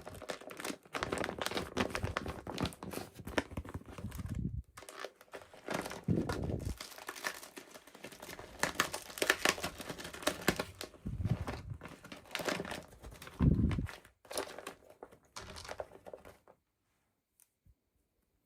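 Toy packaging being handled, crinkled and torn open in dense, irregular crackles and rustles that stop about two seconds before the end.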